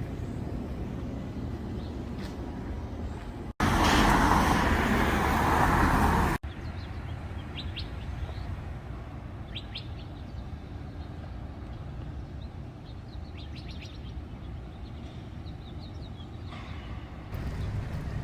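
Outdoor city ambience: a steady low traffic rumble with small birds chirping in short bursts. About three and a half seconds in, a loud rushing noise cuts in abruptly, lasts about three seconds, and cuts off just as sharply.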